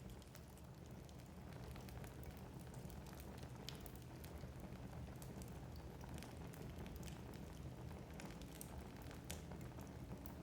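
Wood fire burning in a fireplace: logs crackling and popping with many small irregular snaps over a steady low rumble of the flames.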